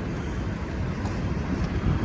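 Empty intermodal well cars and flatcars of a freight train rolling along the track with a steady low rumble, with wind on the microphone.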